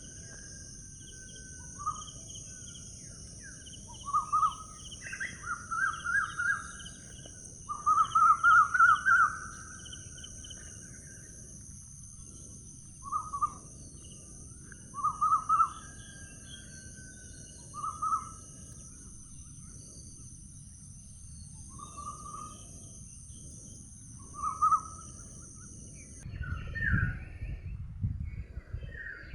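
A bird calling again and again, each call a short, fast run of notes, some runs longer than others, over a steady high insect-like drone. Near the end the drone cuts off suddenly and a low rumble with different calls takes over.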